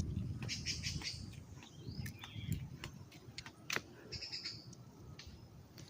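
Small birds chirping in two short bursts of rapid high trills, over a low rumble that fades away in the first couple of seconds, with scattered sharp clicks.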